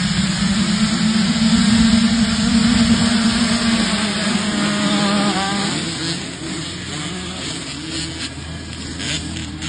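Motocross dirt bike engine running hard at high revs, then dropping to a quieter, lower drone about six seconds in.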